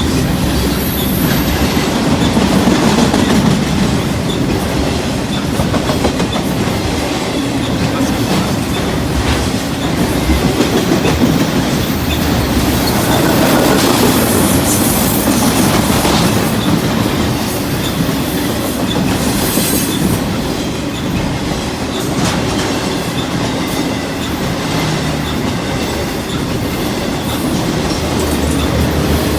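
Freight train rolling past at close range: a steady, loud rumble of steel wheels on the rails as the cars go by.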